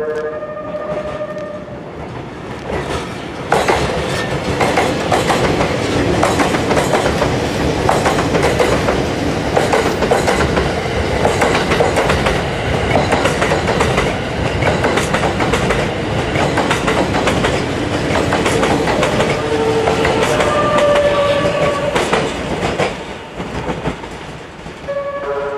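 E001 series TRAIN SUITE Shiki-shima passing through a station. A few notes of its melodic music horn sound at the start. Then comes the loud rush of the carriages going by, with fast clickety-clack of wheels over the rail joints. The horn melody sounds again about twenty seconds in and at the very end.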